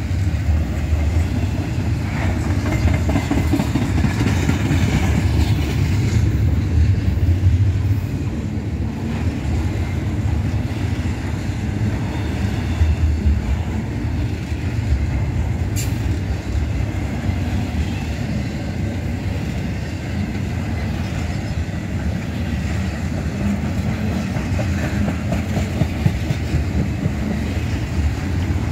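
Loaded intermodal freight cars, carrying double-stack containers and highway trailers, rolling past close by: a steady low rumble of steel wheels on the rails. A single sharp click comes a little past halfway.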